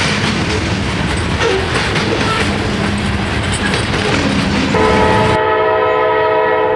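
Freight cars rolling past on the rails, wheels clicking over the joints. Near the end, a locomotive's multi-note air horn sounds a long steady blast as the rolling noise cuts off suddenly.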